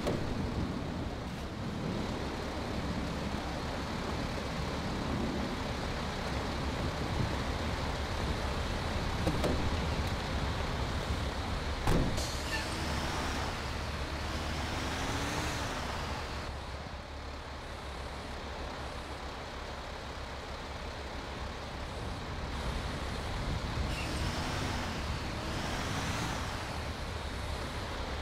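Military truck driving with its engine running steadily. Its pitch rises and falls twice as it revs, and there is one sharp knock about midway.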